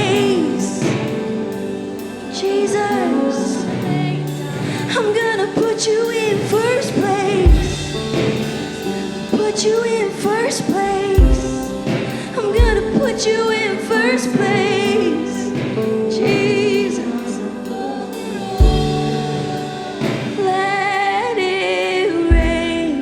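Live church worship music: a voice singing long, wavering lines over sustained chords, with a few deep drum hits spread through it.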